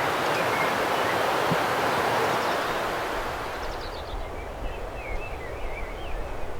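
A steady rushing noise that fades after about three seconds, then songbirds singing, including a common chaffinch: a quick descending series of notes followed by short warbling phrases.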